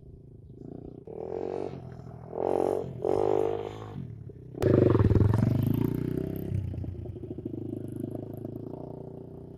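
125cc dirt bike engine running and revved in three short blips of the throttle. A click about halfway through is followed by a bigger rev that slowly settles back toward idle.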